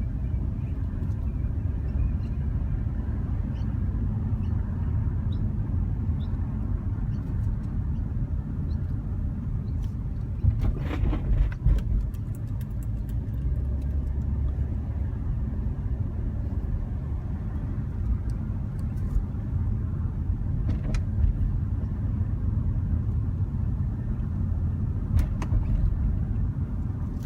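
Infiniti G35 coupe rolling slowly over speed bumps: a steady low rumble with short squeaks or creaks from the front end, several about eleven seconds in and single ones near twenty-one and twenty-five seconds. The squeaking over bumps is an unexplained front-end fault.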